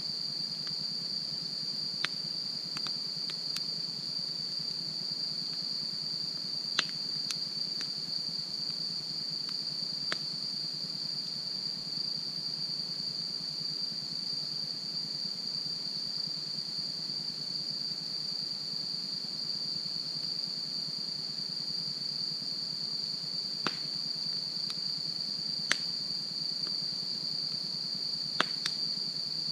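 Wood fire burning with a handful of sharp, spaced-out pops and cracks from the burning wood, over a steady high insect chorus.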